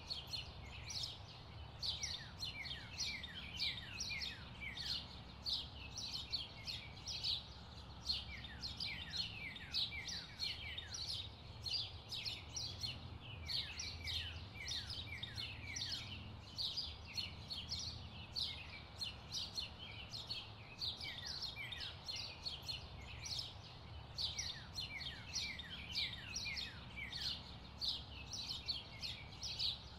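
Birds chirping: many short, quick downward-sweeping chirps, several a second, over a faint low rumble.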